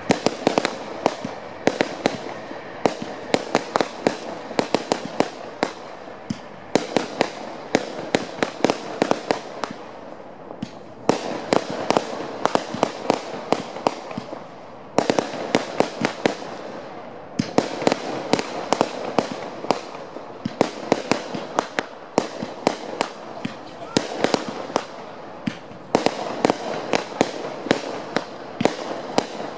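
Fireworks display: rapid volleys of bangs and crackling reports, several a second, with short lulls every few seconds.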